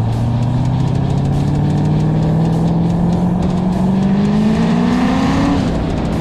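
Twin-turbo Camaro engine accelerating hard under full throttle, its pitch climbing steadily for about five seconds, then dropping sharply near the end.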